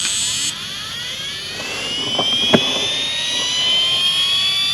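Losi Promoto RC dirt bike's stabilising flywheel spinning up: an electric whine that rises steadily in pitch, with one light knock about two and a half seconds in.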